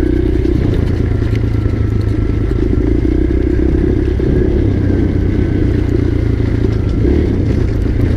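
Dirt bike engine running steadily at a low, even pace as the bike is ridden.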